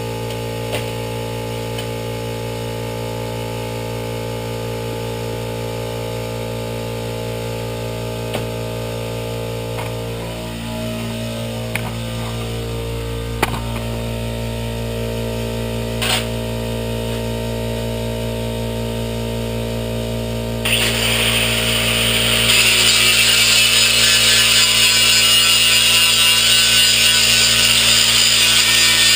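A power tool running steadily with a constant hum and a few clicks; about two-thirds of the way in it bites into metal and a harsh cutting or grinding noise starts, growing louder a couple of seconds later.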